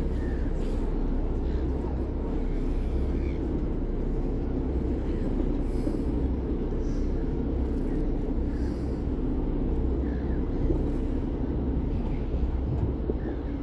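Steady low rumble of a moving vehicle heard from on board, even throughout, with a few faint short higher chirps over it.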